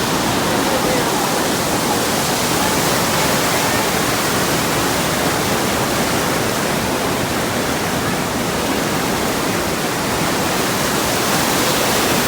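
Whitewater rapids rushing in a steady, unbroken noise.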